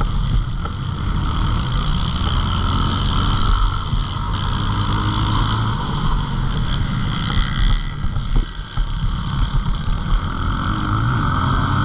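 Pit bike engine running at a fairly steady level, its low note shifting a few times.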